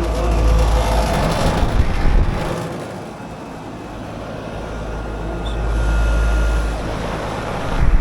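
Outdoor air-conditioner condenser units running, their fans giving a steady rushing noise, with wind buffeting the microphone in gusts that come and go.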